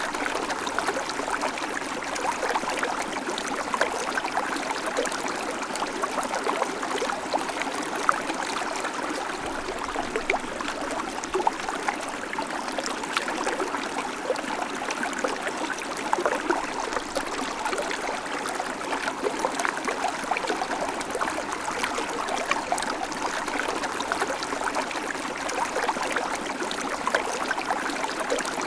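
Babbling creek: water running over stones in a steady, even flow, with many small splashes and trickles.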